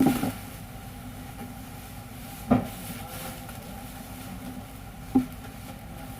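Glue-cutting machine running with a steady hum, broken by a sharp mechanical clack about every two and a half seconds, three times.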